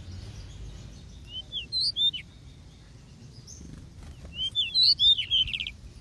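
A small songbird in an aviary sings two short phrases of quick chirps and sweeping notes, one about a second and a half in and a louder one about four and a half seconds in that ends in a short buzzy trill. A low background rumble lies underneath.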